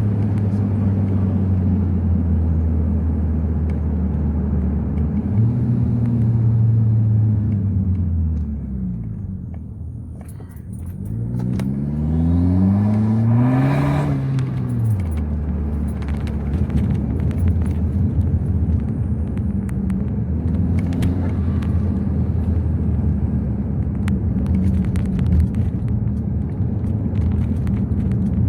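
Exhaust of a 2012 Acura RDX's turbocharged 2.3-litre four-cylinder, running with the rear muffler deleted and a Magnaflow glasspack resonator, heard while driving. The engine note rises and falls around five seconds in, then climbs hard in pitch under acceleration. About fourteen seconds in it ends in a short hiss from the blow-off valve venting as the throttle closes, and the engine settles back to steady cruising.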